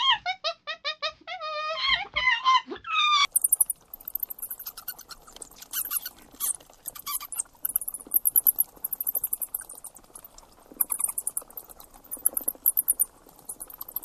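A howler monkey gives a run of short, high-pitched squealing calls that rise and fall. About three seconds in it gives way to a bat's rapid runs of very high chirps and clicks, with short gaps between the runs.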